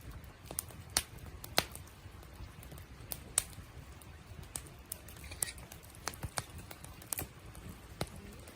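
Wood fire crackling: irregular sharp pops and snaps, a few a second, as the fire burns down toward embers.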